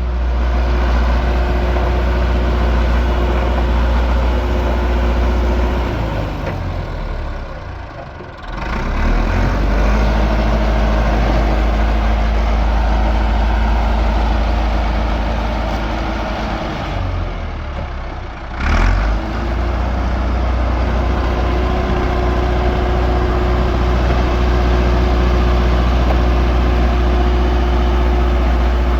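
Heavy engine of municipal machinery working to fill in a ditch, running steadily with a deep hum. It eases off twice, about eight seconds in and again about eighteen seconds in, and picks back up each time.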